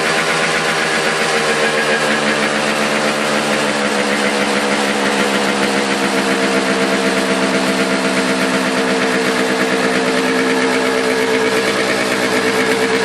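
Yamaha RX 115's two-stroke single-cylinder engine idling steadily, heard at its exhaust.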